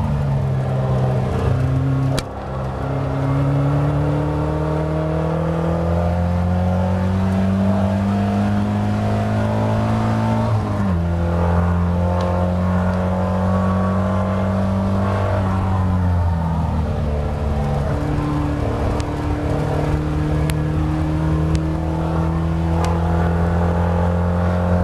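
Caterham Seven's four-cylinder engine heard from the open cockpit, pulling hard on a race lap. Its pitch climbs under acceleration and drops sharply at gear changes about two and eleven seconds in. It eases off around sixteen seconds in, then climbs again.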